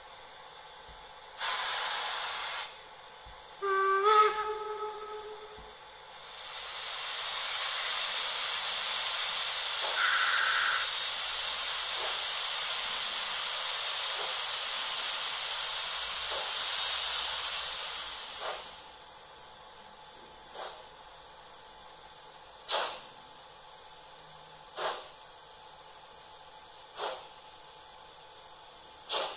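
ESU LokSound 5 decoder in an H0 Märklin class 45 steam locomotive model playing its steam sounds through the model's loudspeaker: a burst of steam hiss, a short whistle blast, then a long steady steam hiss of about twelve seconds. After that, slow single exhaust chuffs about every two seconds as the locomotive starts off.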